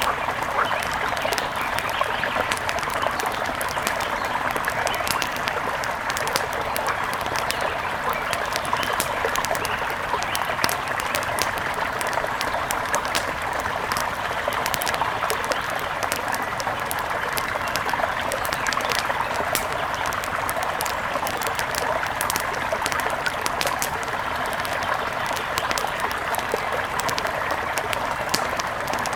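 A mountain river flowing with a steady rushing burble, flecked throughout by many small sharp clicks and splashes.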